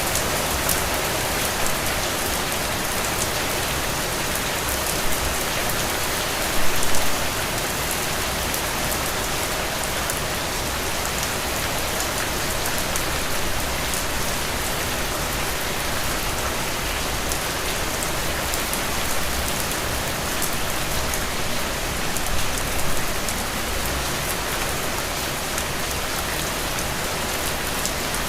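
Heavy rain falling steadily, with sharp ticks of individual drops on top, and two brief louder swells, about a quarter of the way in and about four-fifths of the way through.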